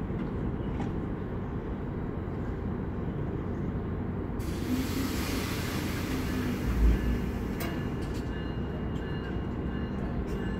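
NJ Transit Comet V commuter train standing at the platform, its diesel locomotive running as a steady low rumble. About four seconds in, a hiss of compressed air starts and lasts about three seconds, with a low thump near its end and a click as it stops.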